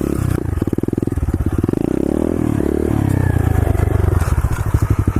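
125cc SSR pit bike's single-cylinder four-stroke engine running as it is ridden, its revs falling and then picking up again around the middle.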